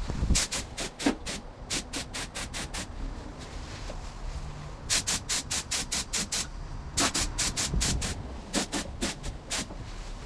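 Paint spray gun hissing in rapid short bursts as the trigger is pulled and released, in five quick groups of several bursts each.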